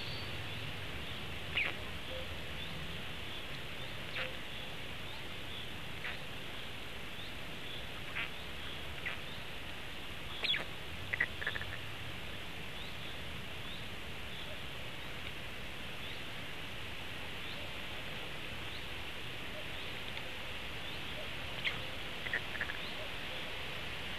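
Short, high bird chirps and calls scattered over a steady outdoor hiss. The louder calls come in small clusters about halfway through and again near the end.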